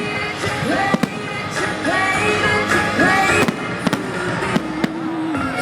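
Fireworks going off in several sharp bangs over loud music.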